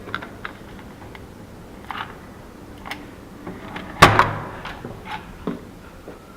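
Hotel room door being unlocked and opened: a series of light clicks and rattles from the lock and handle, with one loud clunk about four seconds in.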